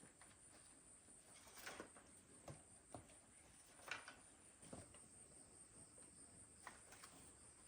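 Faint, steady high-pitched chirring of insects, with a few soft scattered knocks.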